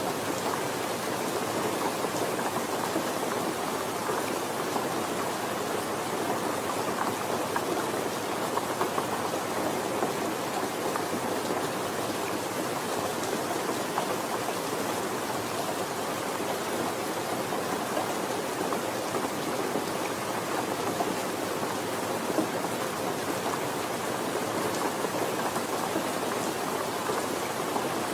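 Steady rain falling, an even patter with scattered faint drop ticks.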